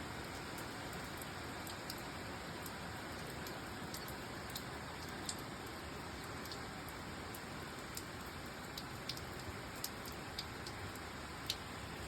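Steady rain falling, with scattered sharp drops tapping close by every second or so.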